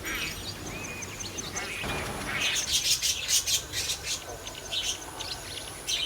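Pet budgerigar chirping and chattering: a few short whistled notes, then a quick run of rapid chirps about two and a half seconds in.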